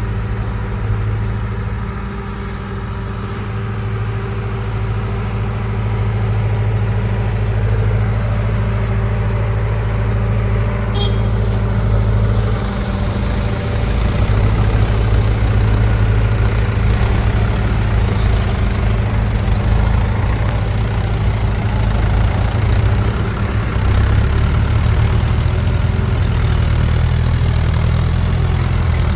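Heavy diesel engine of a tractor or backhoe loader running steadily, with a few sharp clicks and a slight change in the engine note near the end.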